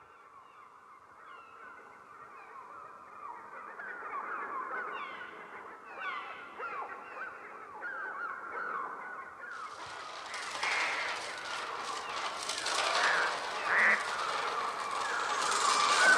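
A mass of shrieking, cawing bird cries, many short calls overlapping, building steadily in density and loudness. About halfway through, a harsher, fuller layer of cries and flapping joins. These are the electronically produced bird sounds made on the Mixtur-Trautonium for the film's title sequence.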